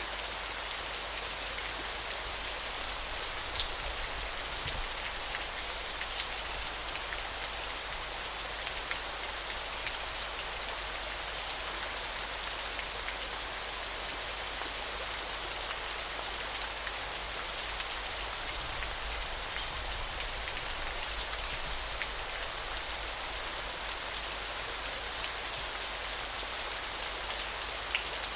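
River water flowing in a steady rushing hiss. A high-pitched insect buzz sits over it at first and fades out about a third of the way in. From a little before halfway, a high insect trill repeats in phrases of a second or two with short pauses.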